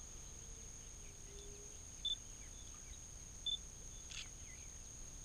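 Coyotes yelping faintly in the distance: many brief high calls that slide downward, with two short sharp high chirps and one sharp yip standing out. Under them runs a steady hiss with a constant high whine.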